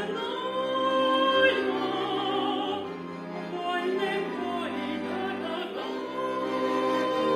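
A female singer holding sustained notes with vibrato in a classical vocal style, over a steady instrumental accompaniment.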